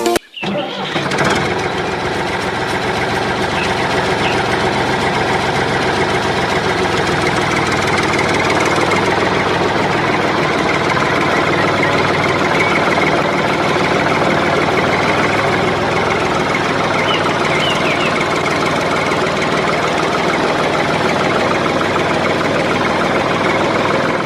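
A small engine starts abruptly and runs steadily at an even speed, with a fast, fine rhythm.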